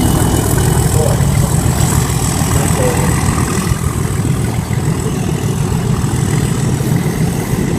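Diesel engine of a Class 37 locomotive (English Electric V12) running under power as the train pulls away, a steady heavy rumble with a thin high whine above it, easing slightly toward the end.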